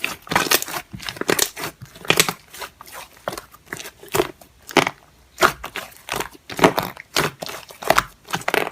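Slime being squished and pressed by hand, giving irregular crackling pops and crinkles several times a second.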